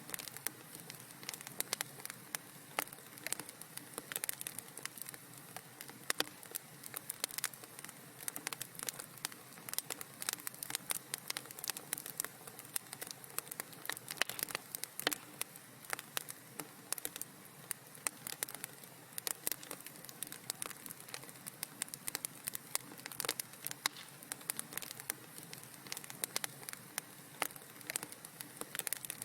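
Wood fire crackling in a fireplace: a soft steady hiss with frequent sharp, irregular pops and snaps.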